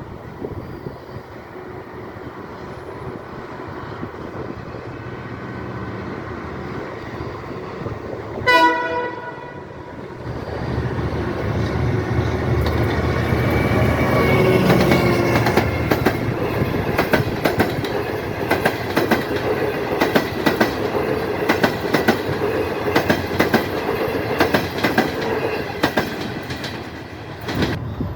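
Train on the Belgrano Norte line approaching with a rising rumble and sounding one short horn blast about eight seconds in. It then passes close by, its wheels clattering rhythmically over the rail joints, until the sound cuts off near the end.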